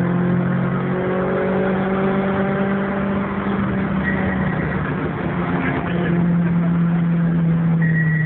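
Renault Clio Williams' 2.0 16-valve four-cylinder engine and road noise heard from inside the cabin, running at a steady cruising pace. A thin high whine joins briefly around four seconds in and again near the end.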